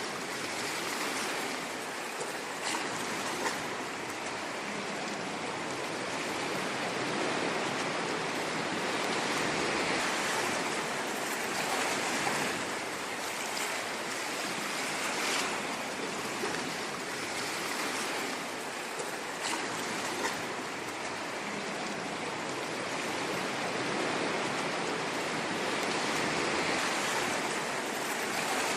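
Ocean waves washing onto a shore, a continuous hiss of surf that swells and eases gently every few seconds.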